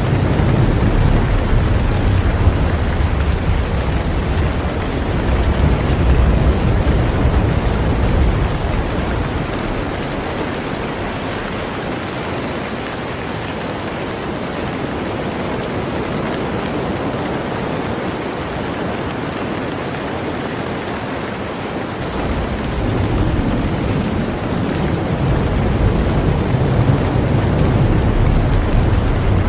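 Heavy rain falling steadily on a boat. A deep low rumble runs under it for the first nine seconds or so, drops away, and comes back about 22 seconds in.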